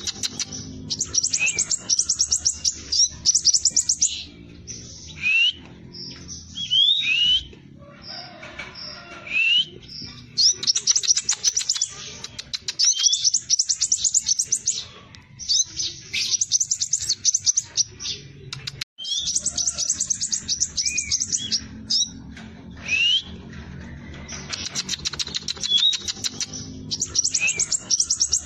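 Scarlet minivet (sepah raja) singing continuously. Its song comes in bursts of very rapid high notes, each a second or two long, broken by short, sharp rising whistles.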